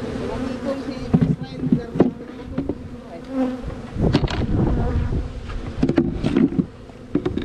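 Honey bees buzzing in a steady hum around the open hives, broken by repeated sharp knocks and clatter from the hive equipment being handled.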